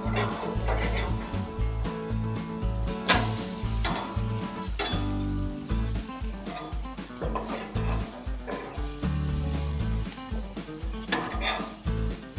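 Chicken sizzling on a hot grill grate, a steady hiss, with a couple of sharp clicks about three seconds in and near the end. Background music with a steady low beat plays underneath.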